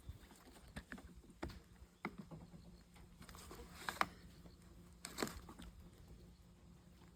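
Scattered light clicks and taps, a few of them sharper, over a faint steady hum.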